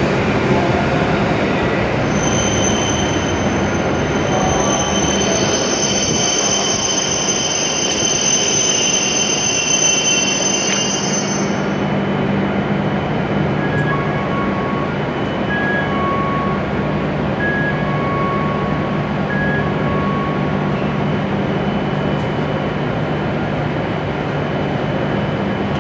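W7 series Shinkansen train rolling to a stop alongside the platform, with a steady rushing noise and a low hum. A high-pitched whine runs until about twelve seconds in, then stops as the train halts. A two-note chime then repeats several times as the doors open.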